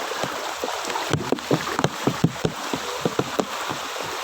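Floodwater splashing and gurgling, with many small irregular plops and a steady watery hiss underneath.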